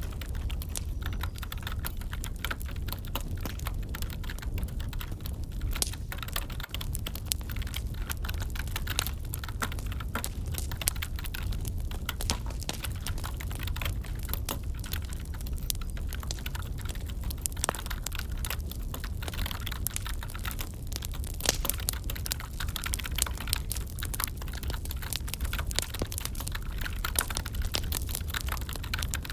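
Typing on a computer keyboard, a continuous run of irregular key clicks, over a crackling wood fire.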